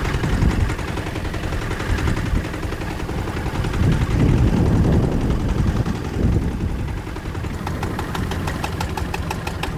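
A boat engine running, with strong wind buffeting the microphone. Near the end a fast, even ticking comes in, several ticks a second.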